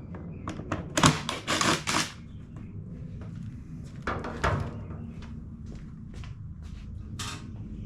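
Clicks, clacks and knocks of a screwdriver and the plastic generator case being handled while screws are taken out. A loud cluster comes about a second in, with more knocks around four seconds and near the end, over a steady low hum.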